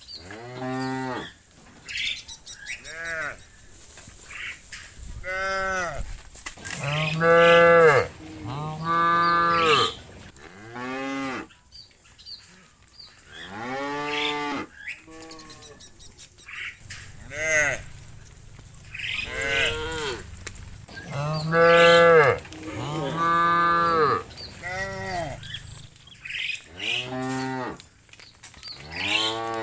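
Cattle mooing again and again, about a dozen separate calls one after another, each about a second long and rising then falling in pitch.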